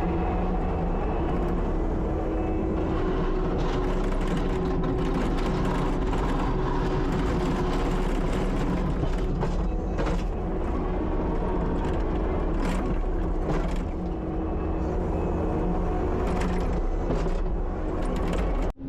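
Kubota SVL75-2 compact track loader's diesel engine running steadily, with a few sharp knocks partway through. The sound cuts off suddenly near the end.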